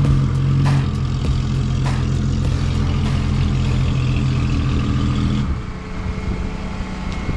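Vehicle engine running steadily, its level dropping about five and a half seconds in. A few sharp clicks sound over it in the first couple of seconds.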